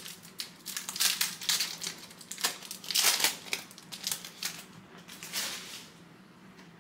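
A trading-card pack's foil wrapper being torn open and crinkled, a run of crackling rustles that dies down about six seconds in.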